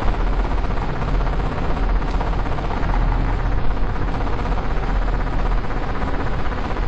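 CNC milling-engraving machine running, its spindle cutting with a steady, loud noise over a constant low hum.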